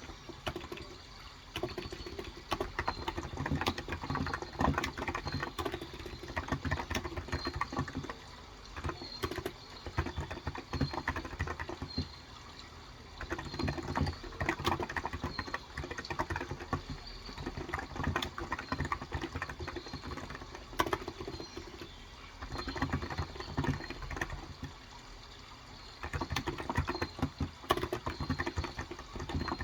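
Typing on a Cox Endeavor electrostatic-capacitive (Topre-style) 35 g tenkeyless keyboard: fast runs of soft keystrokes broken by short pauses.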